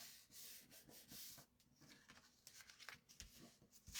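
Faint rustling and rubbing of cardstock being handled and pressed into place, with a few light taps.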